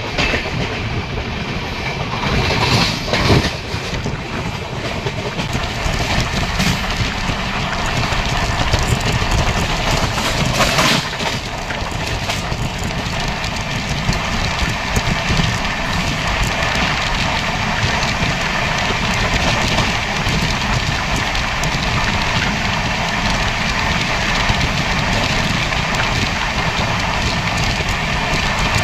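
Amrit Bharat Express passenger train running along the track: steady rolling noise of wheels on rails, with two brief louder surges about three seconds and about eleven seconds in.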